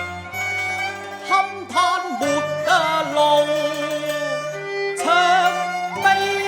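Cantonese opera accompaniment ensemble playing an instrumental interlude between sung lines. Bowed strings carry a sliding, wavering melody over sustained low notes, with new phrases entering about five and six seconds in.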